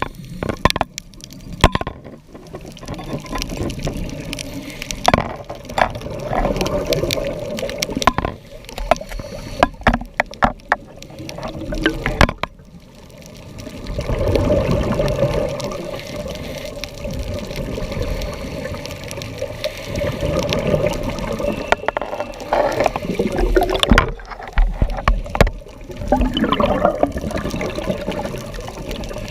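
Water bubbling and sloshing in irregular rushes a few seconds long, with many scattered clicks and knocks, as picked up by a diving camera.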